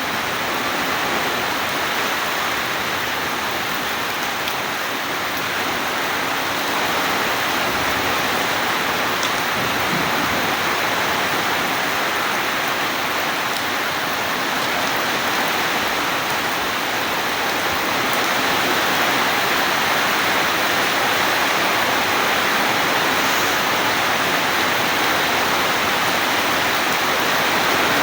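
Heavy rain falling steadily, a dense even hiss, growing slightly louder about two-thirds of the way through.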